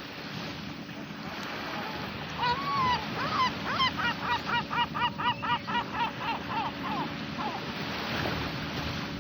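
Waves breaking steadily on the shore, with a bird calling a long run of repeated notes, about four a second, from a couple of seconds in until near the end.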